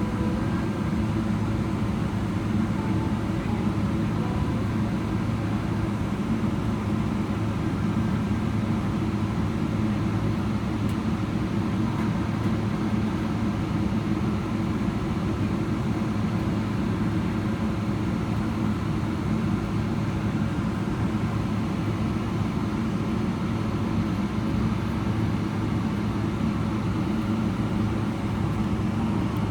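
Steady cabin noise of a Boeing 777-300ER taxiing, its GE90 engines running near idle along with the cabin air system, heard from a window seat inside the cabin.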